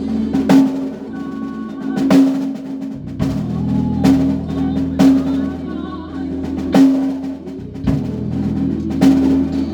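A band rehearsing: a drum kit plays snare hits and rolls with accented crashes every second or two, over sustained low bass notes.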